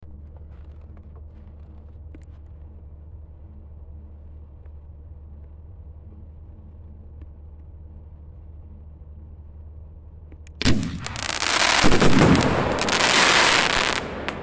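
A steady low background rumble for about ten seconds. Then a five-shot firework cake fires its first shot, a crackle mine: a sharp bang, followed by about three seconds of dense crackling.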